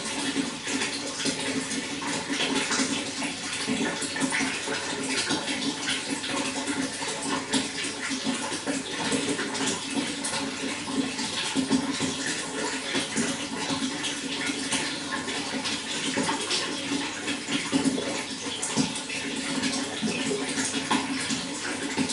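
Running water flowing and splashing steadily, an even rush with many small splashes and no change in pace.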